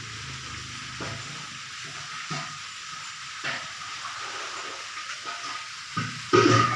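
A steady hiss with a few scattered clicks and knocks. Near the end a rooster starts to crow loudly.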